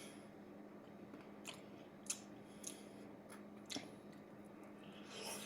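Faint chewing of a hard, crispy microwave pizza crust, a few scattered crunches a second or so apart.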